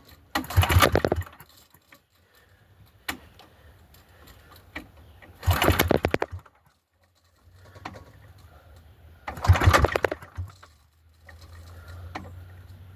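Small gas generator engine being cranked by its recoil pull cord: three hard pulls about four seconds apart, each a second-long burst of cranking that dies away without the engine firing. It is a cold start that isn't catching.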